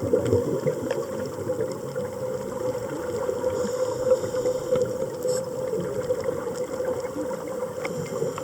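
Underwater ambient noise on a scuba dive: a steady low hum under a gurgling wash, with a few faint clicks.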